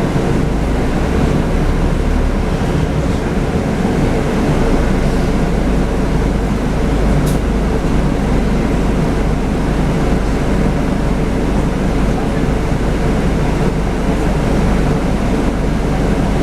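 Scania N250UD double-decker bus's five-cylinder diesel engine running steadily, with a low rumble of drive and road noise, and a brief click about seven seconds in.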